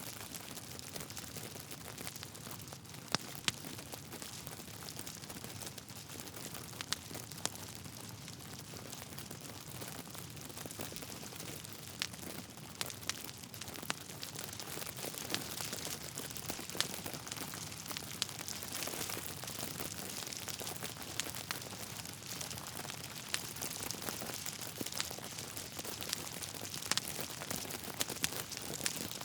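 Wood fire burning in a fireplace: a steady soft hiss with irregular sharp crackles and pops scattered throughout, a few standing out louder than the rest.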